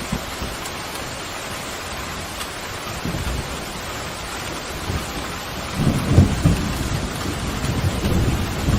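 Steady pouring rain with a low rolling rumble of thunder that builds from about the middle and is loudest a little past six seconds in.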